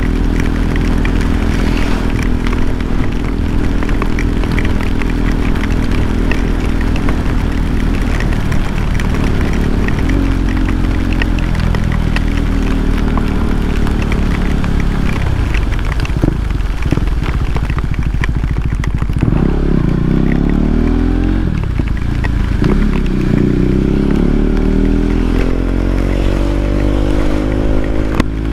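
KTM 390 Duke's single-cylinder engine running on the move. Its note holds steady at first, dips in pitch twice in the middle as the bike slows, then climbs steadily near the end as it accelerates.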